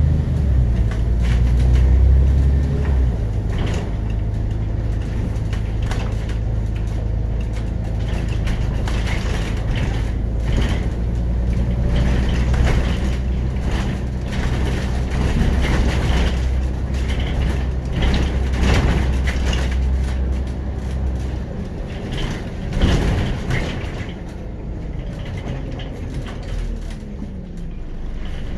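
Scania DC9 five-cylinder diesel of a city bus running under way, heard on board, with rattles and knocks from the bus body throughout. About two-thirds of the way in, the deep engine hum drops away as the bus eases off, and a cluster of knocks follows.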